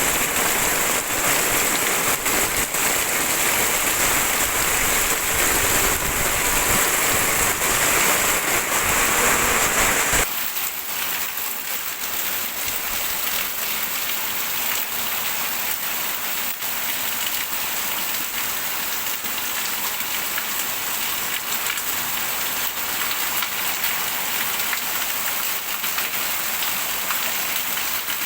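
Heavy rain pouring steadily. About ten seconds in the sound abruptly becomes quieter and thinner, losing its low rumble, and then carries on evenly.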